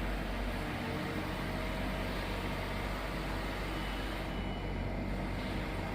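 4-ton mini spider crane's power unit running steadily with an even mechanical hum and no change in speed.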